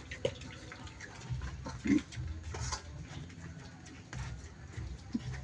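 Pig grunting: a few short grunts spaced out over a low rumble.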